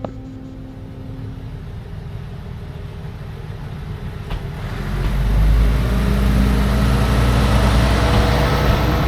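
Minamiaso Railway diesel railcar approaching the station, its engine a low rumble with a steady hum that swells loud about five seconds in and stays loud. A sharp click comes at the very start and another about four seconds in.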